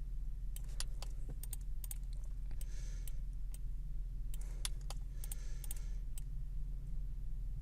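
Scattered clicks of a computer mouse and keyboard, with a couple of short rattling runs of keystrokes, over a steady low hum.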